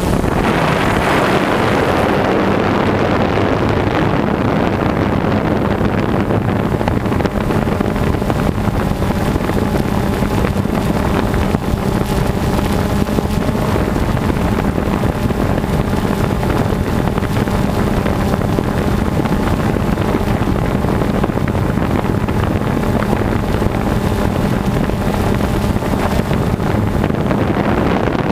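Jet ski engine running at a steady speed, with wind buffeting the microphone.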